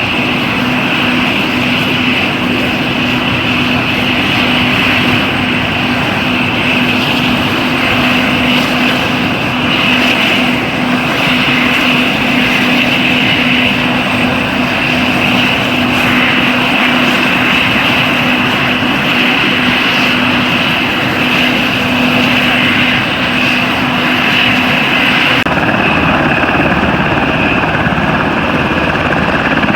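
Black Hawk military helicopters running, a loud, steady mix of rotor noise and the high whine of their twin turboshaft engines. The sound changes abruptly about 25 seconds in, when the lower steady tone drops away.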